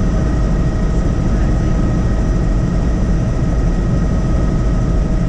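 Helicopter in flight, heard from inside the cabin: a steady low rotor and engine drone with a thin, even whine over it.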